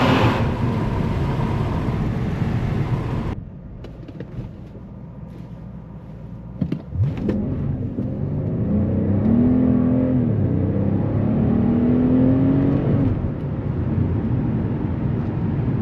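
Mercedes S65 AMG's 6.0-litre V12 biturbo engine running under load. It drops suddenly to a quieter running sound about three seconds in. A couple of short knocks follow, then the engine note rises twice in pitch as it accelerates, settling near the end.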